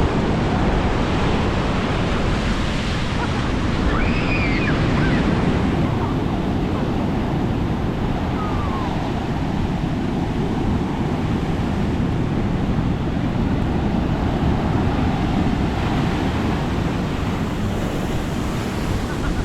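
Sea waves breaking and washing up on a beach, a steady surf, with wind buffeting the microphone.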